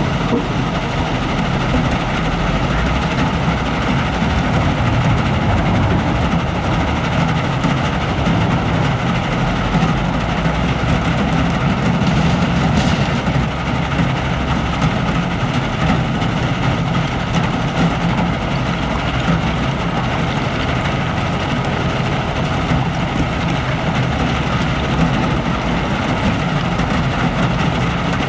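Diesel engine of a Cat 972M XE wheel loader running steadily, with a rattling clatter over a deep drone.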